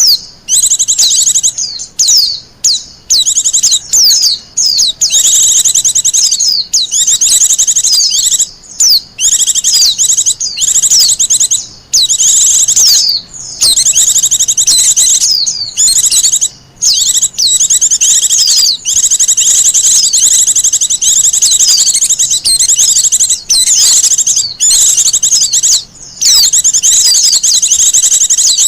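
Wild white-eye (pleci) singing: a loud, fast, high-pitched twittering song of rapid sweeping notes, running almost without pause apart from brief breaks.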